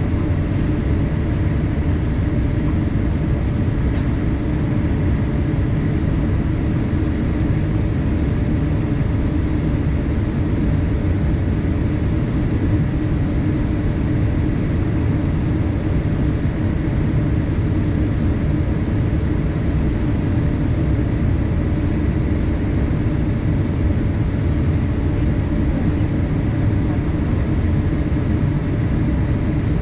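Steady cabin noise inside a Boeing 787-8 in flight: an even rush of airflow and engine noise, strongest in the low range and unchanging in level.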